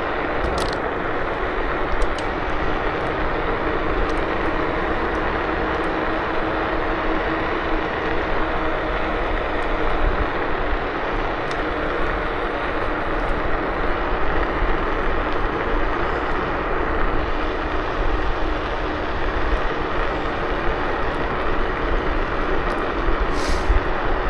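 A KuKirin G2 electric scooter riding at about 25 km/h: a steady rush of road and wind noise with a faint steady hum.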